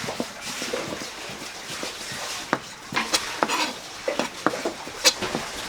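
A knife working fish on a cutting board for raw-fish slices: irregular sharp knocks and taps of the blade on the board, with scraping in between.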